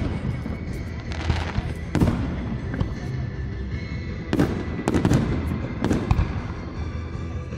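Fireworks display: shells bursting in a string of sharp bangs, about five in all, with a spell of crackle between them, over background music.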